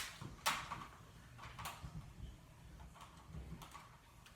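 A few sharp plastic clicks and taps as an HO scale model train and its track are handled, over a low hum. The loudest click comes at the start, then one about half a second in and another near a second and a half, with fainter taps later.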